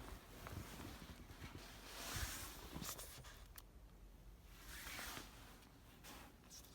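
Faint crunching and swishing of steps in deep snow, two soft swells a few seconds apart with a few small clicks between them.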